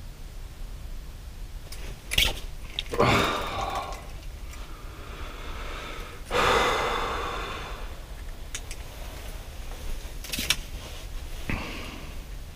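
Two heavy, breathy exhalations, the second longer and fading slowly, with a few light clicks of handling noise in between, over a steady low hum.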